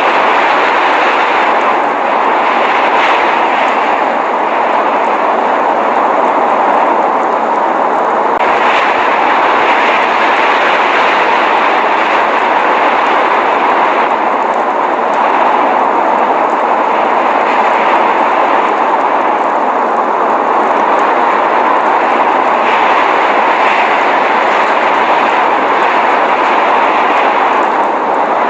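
Steady rushing noise of a blizzard, wind driving snow, holding an even level without gusts or breaks.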